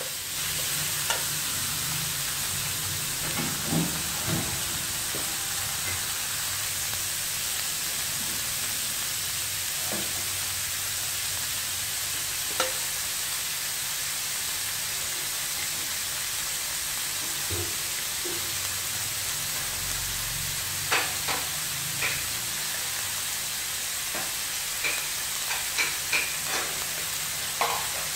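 Pork pieces frying in a steel wok, a steady sizzle, with a few short clinks of the metal wok spatula against the pan, several of them close together near the end.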